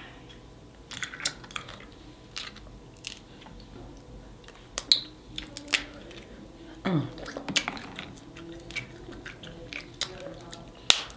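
Eating snow crab legs: scattered sharp clicks and cracks from the shells being broken and bitten, mixed with chewing sounds.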